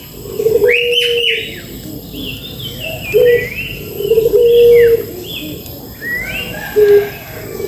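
A dove cooing in three phrases of low, held notes, while a songbird gives quick rising and falling chirps above it throughout.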